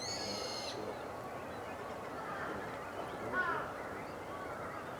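Several short, down-slurred bird calls at intervals over a steady outdoor background hiss, with a brief high, piping whistle right at the start.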